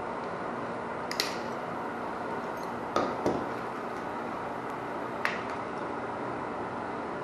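Four short, sharp clicks and taps from hand work on water heater wiring, over a steady background noise.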